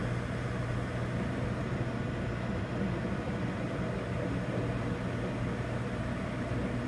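Microwave oven running: a steady low hum with fan noise, unchanging throughout.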